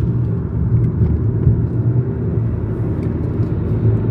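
VW Golf GTI Mk7's 2.0-litre turbocharged four-cylinder engine and tyres heard from inside the cabin while driving, a steady low drone.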